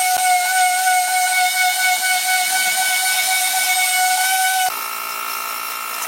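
A steady, high-pitched whine: one held tone over hiss that does not waver. About three-quarters of the way through it cuts abruptly to a quieter whine of a different pitch.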